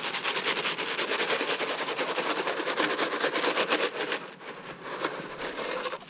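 Chicken feed poured out, a dense rattling rush of grains that starts suddenly and eases off about four seconds in.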